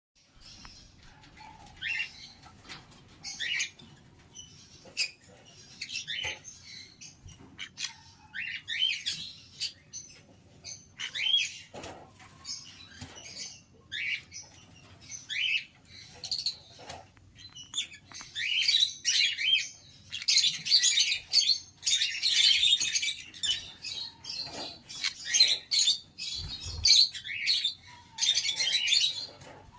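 Conure parrot chirping and squawking in short, rapid calls, which come thicker and louder over the last third.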